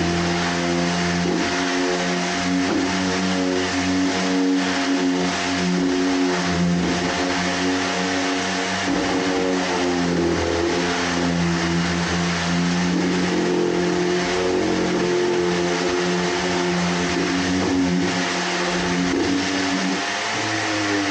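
Electric orbital sander fitted with 80-grit paper running continuously on bare wood. Its steady whine wavers in pitch now and then over a dense sanding hiss.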